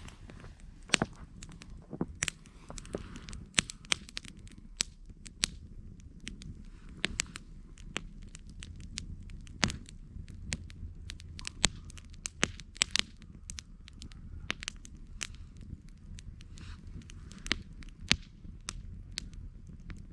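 Campfire crackling: wood popping and snapping in irregular sharp cracks, several a second at times, over a steady low rumble.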